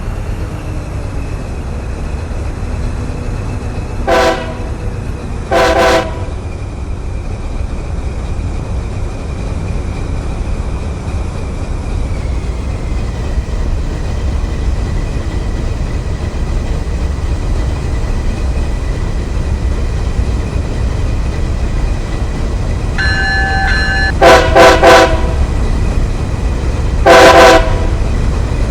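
Train locomotive horn sounding in blasts over the steady low rumble of a moving train: two blasts about four and six seconds in, then a broken blast and one more near the end.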